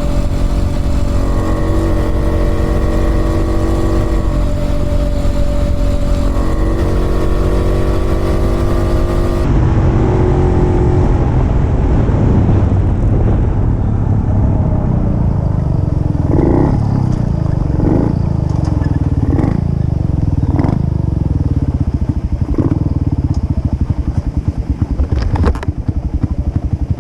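Puch 250 TF's split-single two-stroke engine running on the road, its pitch rising and falling with the throttle. In the second half it gives a series of short revs, each rising briefly, about one every second and a half.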